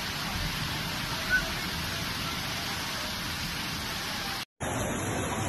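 Heavy rain falling on a flooded street, a steady hiss. A brief high-pitched sound about a second in, and the sound drops out for a split second near the end.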